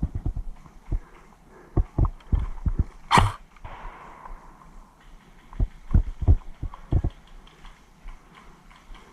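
Low thuds in irregular groups, like footsteps and gear knocking near a body-worn camera's microphone, with one sharp crack followed by a brief hiss about three seconds in.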